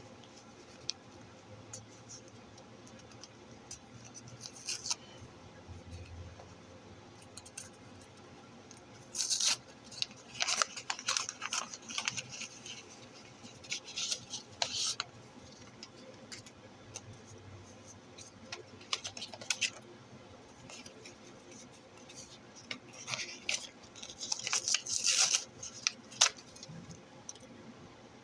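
Coin packaging being handled and opened: crackly rustling and scraping in two bursts, one about a third of the way in and a longer one near the end, with scattered small clicks between.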